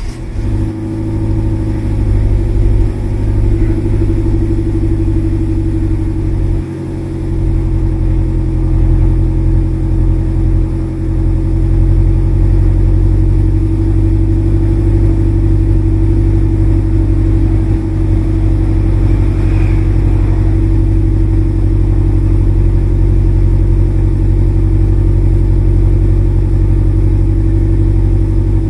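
Exhaust note of a Subaru VN5 Levorg's turbocharged flat-four through an STI Performance muffler, idling steadily just after a start, with no throttle applied. The idle settles and holds steady, with a brief dip about seven seconds in.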